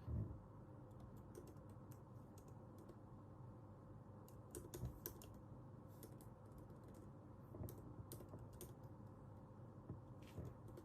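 Faint computer keyboard typing: irregular runs of key clicks broken by short pauses, with a soft low thump just after the start.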